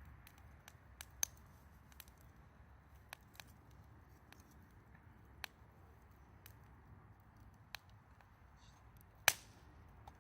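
Wood fire crackling: scattered, irregular sharp pops and snaps over a faint steady hiss, with one loud pop near the end.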